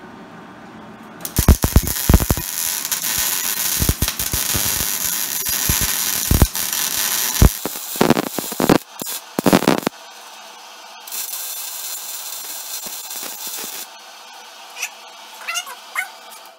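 Wire-feed (MIG) welder arc crackling and sputtering with irregular loud pops for about nine seconds, then a second, thinner hiss of welding for about three seconds. The uneven sputter fits the welder's suspicion that his wire speed is a little off.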